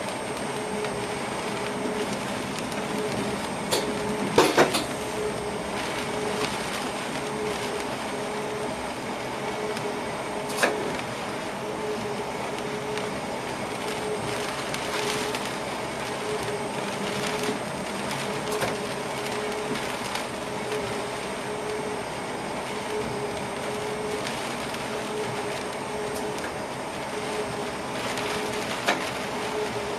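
Passenger train running along the track, heard from inside the driver's cab: a steady running noise with an evenly pulsing hum, and a few sharp knocks, the loudest a quick cluster about four seconds in.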